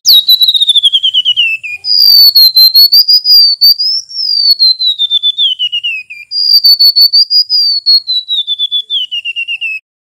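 Golden-bellied gerygone (remetuk laut) singing: three long runs of rapid, high whistled notes, each wavering and then sliding down in pitch. Short breaks come about two and six seconds in.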